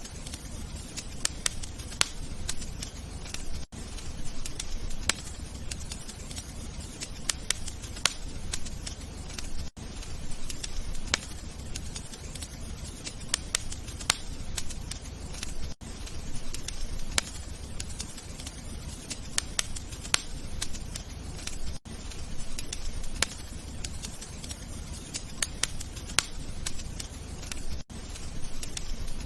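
Wood fire crackling, with irregular sharp pops and snaps over a low, steady rumble of flames. The sound dips out briefly about every six seconds.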